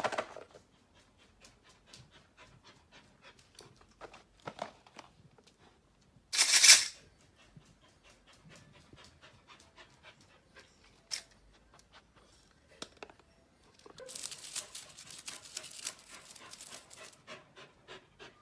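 Samoyed dog panting in quick, faint breaths, with a short loud rushing burst about six seconds in and a louder, noisier stretch of breathing near the end.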